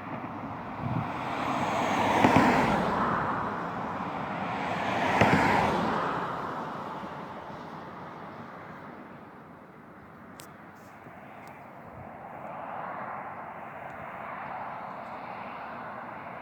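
Road traffic going past: two vehicles swell up and fade away a few seconds apart, leaving a steady low hum of traffic.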